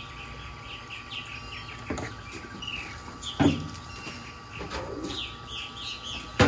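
Small birds chirping repeatedly in the background over a faint steady tone, with two light knocks about two and three and a half seconds in, the second the louder.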